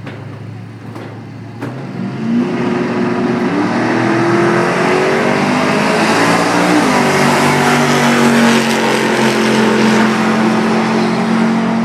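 LS V8-swapped Chevy S-10 pickup launching and accelerating hard down a drag strip. The engine note climbs, drops once at an upshift, then holds high and loud.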